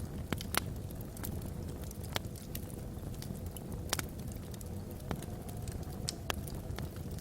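Wood logs burning in a fireplace: a steady low rumble of flame with sharp crackles and pops, one to three a second. A faint whistle of wind across the chimney runs underneath and rises slightly about five seconds in.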